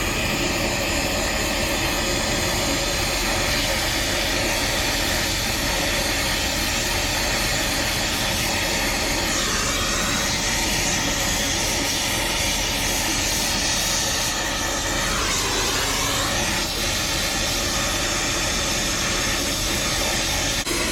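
Brazing torch flame burning with a steady, loud rushing hiss while a copper refrigerant line joint on an air-conditioning condenser is soldered. The tone shifts slightly a couple of times as the flame is moved.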